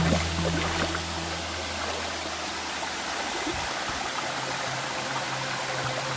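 Waterfall rushing steadily: the falling water makes an even, unbroken roar of white noise.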